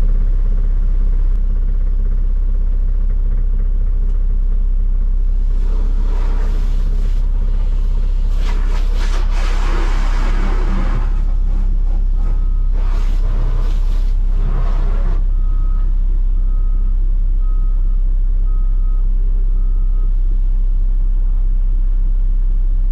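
Heavy truck's diesel engine running steadily, with three stretches of rushing, hissing noise in the first half. A reversing beeper sounds about once a second for several seconds past the middle.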